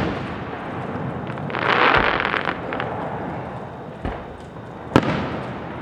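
Fireworks going off: a dense burst of crackling about two seconds in, with dull low booms of shells bursting and a sharp bang near the end.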